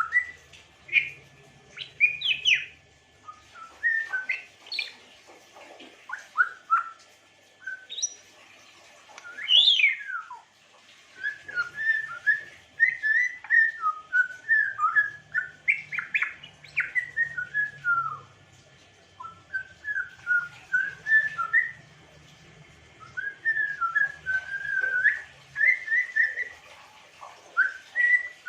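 African grey parrot whistling and chirping in a long, varied string of short whistled notes and glides, with a loud whistle that rises and then falls about ten seconds in.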